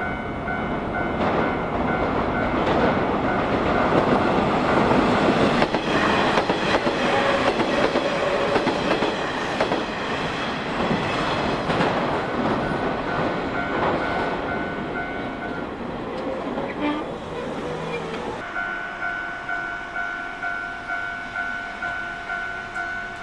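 A Nishitetsu electric train runs past over a level crossing, its wheels rumbling and clattering over the rail joints. The crossing's warning bell rings the whole time, pulsing about twice a second, and is heard alone once the train has gone, about eighteen seconds in.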